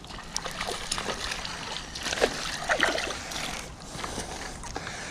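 Water splashing and sloshing in short, irregular bursts as a small hooked river bass is brought in.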